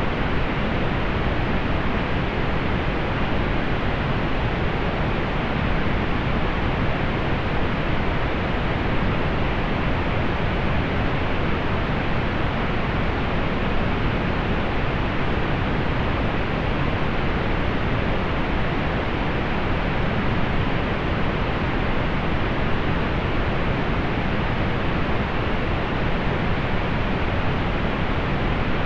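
Steady synthetic pink noise: an even, unchanging hiss, heavier in the low end and softened in the highs.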